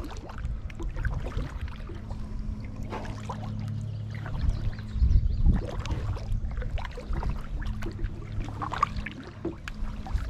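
Kayak paddle strokes: water splashing irregularly and dripping off the blade as the kayak moves through shallow water, over a steady low hum.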